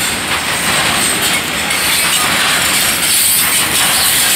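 A train of loaded coal hopper cars rolling past, its steel wheels on the rails making a steady, loud running noise.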